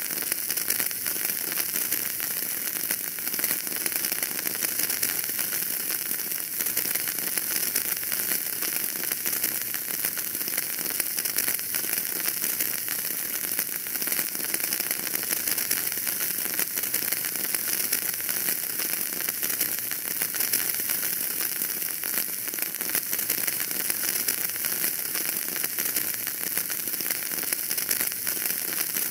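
Wood fire burning in a fireplace: a steady hiss with dense, small crackles throughout.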